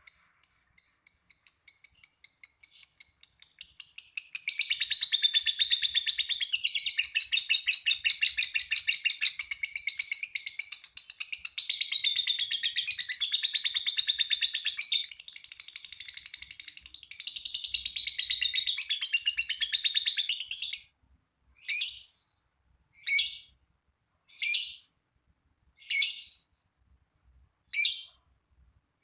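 Lovebird giving its long 'ngekek' chattering song: a rapid, high-pitched run of chatter that builds over the first few seconds and goes on for about twenty seconds, then breaks off into single sharp chirps about a second apart.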